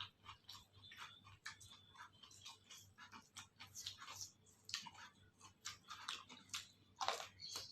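Close-miked mouth sounds of a person chewing food: quick wet clicks and crunches several times a second, with a louder crunch about seven seconds in.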